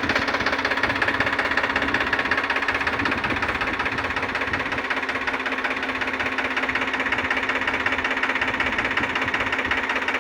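Tractor diesel engine running steadily at idle, with a rapid, even knocking beat.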